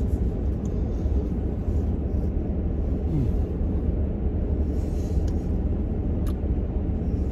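Steady low rumble of a car's idling engine heard from inside the cabin, with a brief click about six seconds in.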